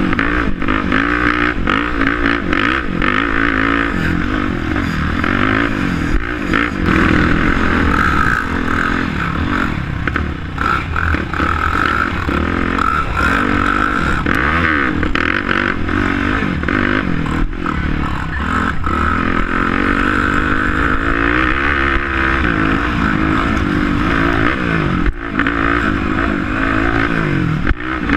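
Several quad bike engines racing, their pitch rising and falling over and over as the riders throttle on and off, with several engines overlapping.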